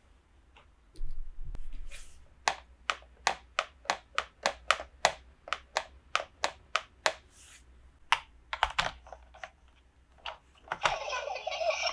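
A quick run of sharp clicks and taps, about four a second, from small plastic toy parts being handled. Near the end a louder, denser rustling crinkle sets in.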